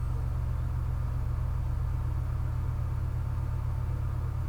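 A steady low hum in the background, even and unchanging.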